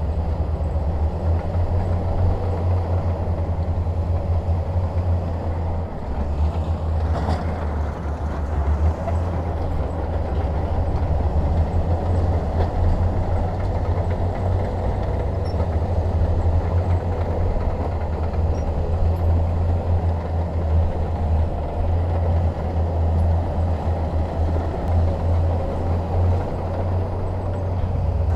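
Heavy bulldozer's diesel engine running steadily with a deep low drone, and a brief rattling scrape about seven seconds in.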